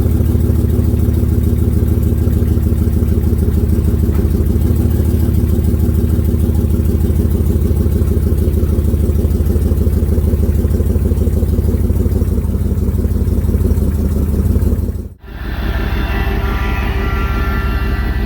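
Chevy Silverado 1500HD's 6.0-litre V8 idling steadily with an even low pulsing. About fifteen seconds in the sound cuts out briefly and returns as a different steady running sound with higher whining tones over the low rumble.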